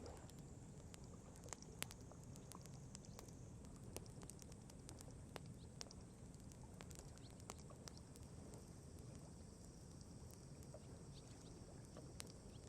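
Wood campfire crackling: scattered sharp pops and snaps at irregular moments, a few louder than the rest, over a faint low steady rumble.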